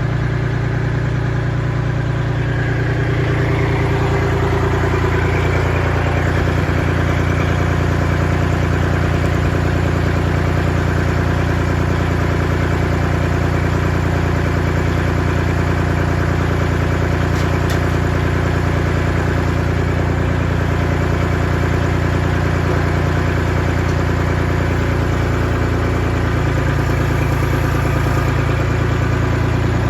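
Tractor engine idling steadily, with a slight change in pitch about three seconds in and again near the end.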